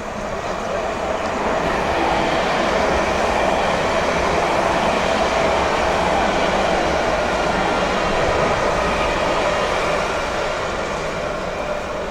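Jerusalem Light Rail tram passing close by: its sound swells over about two seconds, holds steady, then fades near the end.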